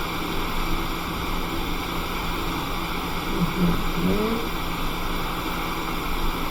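Steady rushing hiss of a hot air rework station blowing on the iPhone 6S board while the solder under the new Tristar chip reflows. A brief voiced sound, like a short hum, comes about three and a half seconds in.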